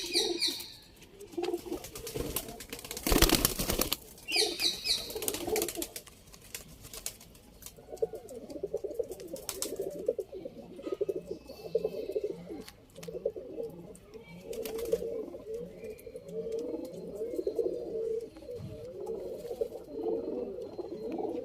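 Domestic pigeons cooing, many birds overlapping in a continuous pulsing murmur that fills in from about eight seconds on. A brief rustling burst about three seconds in and a few short high squeaks come before it.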